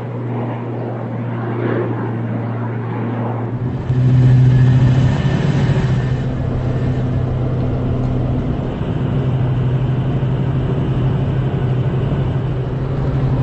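Aircraft engines droning steadily with a low hum. About four seconds in the drone gets louder and a rumble joins it.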